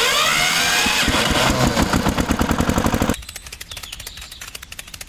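A small engine running with a rapid rattling beat, cutting abruptly to a quieter run of the same rattle about three seconds in.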